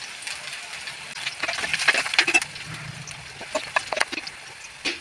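Sliced shallots and dried red chillies frying in hot oil in a steel pan, sizzling with many sharp crackles and pops, while a steel spoon stirs and scrapes the pan.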